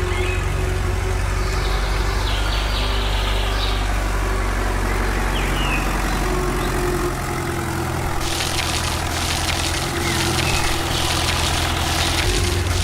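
A vehicle engine running steadily at idle, with a constant low hum, and a hiss that grows louder about eight seconds in.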